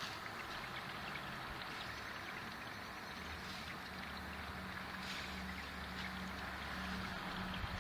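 Hail and rain falling: a steady hiss with scattered faint ticks, over a faint low hum.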